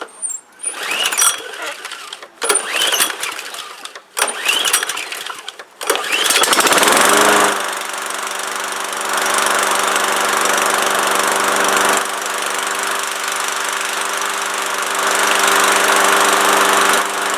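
Riding lawnmower engine being cranked in about four short tries, catching about six seconds in, then running steadily. It starts easily after sitting idle.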